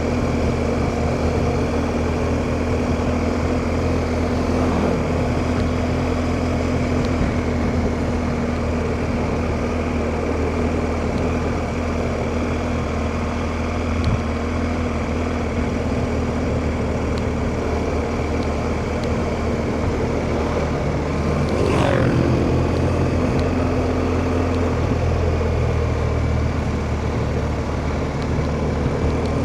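BMW R1250GS Rallye's boxer-twin engine running steadily while riding, heard through a helmet-mounted mic with wind rush. About three-quarters of the way through, a short falling sweep passes.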